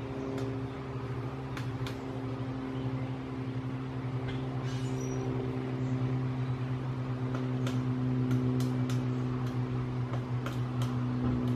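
A steady, low engine drone, like a motor vehicle running nearby, with a few irregular sharp taps of a pileated woodpecker pecking at wood to dig out carpenter ants.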